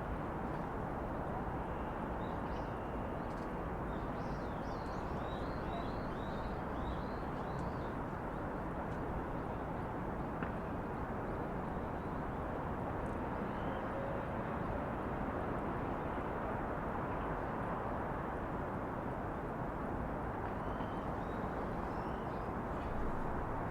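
Steady low hum of distant city traffic, with a run of small bird chirps a few seconds in and a few more near the end.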